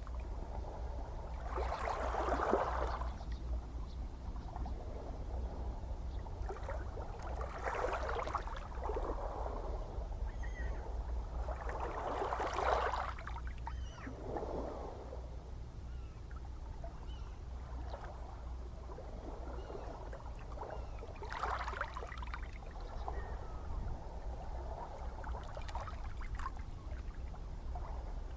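Gentle ocean waves washing in one after another every few seconds, each a soft surge of noise that swells and fades, over a steady low rumble of surf.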